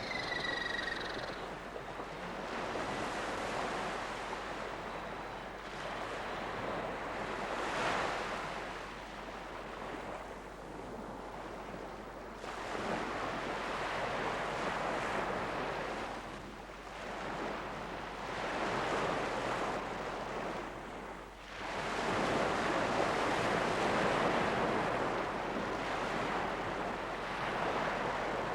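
Surf washing onto a shore, swelling and ebbing in waves every few seconds, with a brief high falling tone at the very start.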